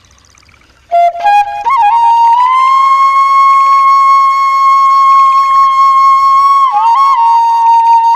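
Bansuri (bamboo flute) playing a slow melody: after a quiet first second it comes in with quick ornamented notes, holds one long note for about four seconds, then breaks into quick turns again near the end.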